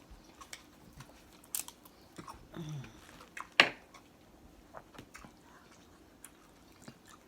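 Close-up eating sounds of a seafood boil: chewing, biting and wet lip smacks, with scattered short clicks and one sharp, loudest smack or crack about three and a half seconds in.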